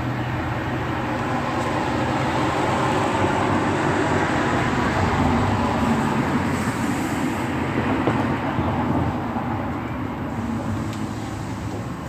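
A passing vehicle: a steady rushing rumble that swells over several seconds and eases off near the end.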